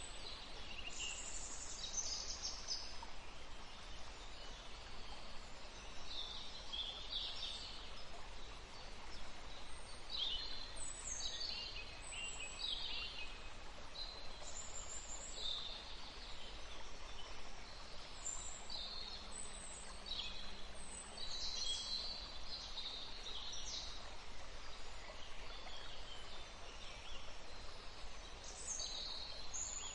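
A forest stream running steadily, with many songbirds singing over it in short, high chirps and phrases throughout.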